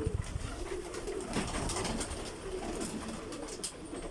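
Several domestic loft pigeons cooing, their low arching coos overlapping one after another, with scattered light clicks among them.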